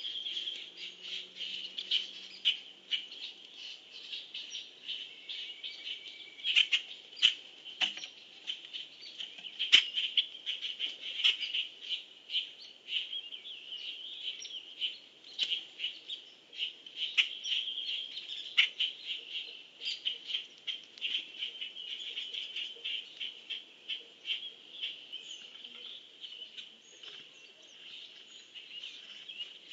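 Wild birds chirping and calling: many short, sharp chips and calls over a steady, high-pitched chorus.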